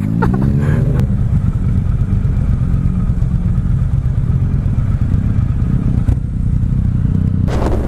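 Motorcycle engine heard from the bike, rising in pitch as it accelerates in the first second, then running at a steady cruise, with wind noise on the microphone.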